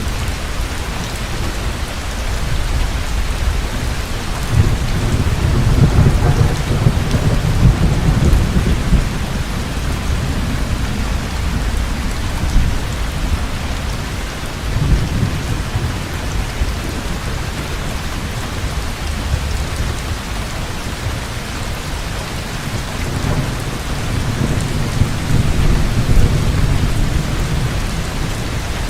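Heavy rain falling steadily, with thunder rumbling low and long three times: a long roll about a quarter of the way in, a shorter one about halfway, and another near the end.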